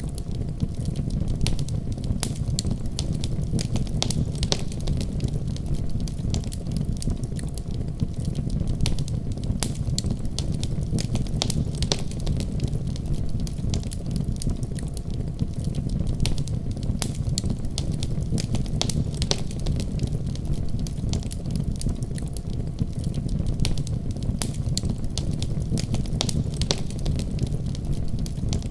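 Wood fire crackling in a fireplace: frequent, irregular sharp pops and crackles over a steady low rumble of burning.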